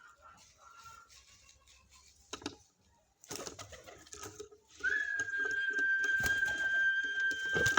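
Birds calling, with cooing, and a steady high whistling tone held for about three seconds from about five seconds in.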